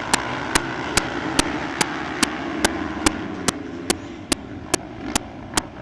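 Motocross motorcycle engines running under a steady din, with a sharp click repeating evenly about two and a half times a second.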